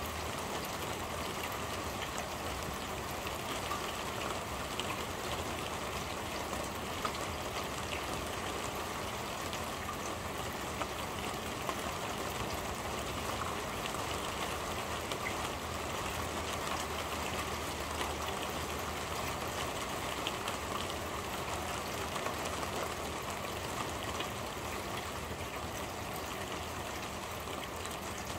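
Steady rain falling on a corrugated roof, heard from underneath: a constant hiss of drops with scattered louder single drips.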